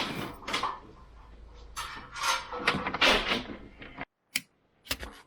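Irregular scraping and rustling of 14-2 electrical cable being handled and rubbed, in several uneven strokes, then a single click and near silence about four seconds in.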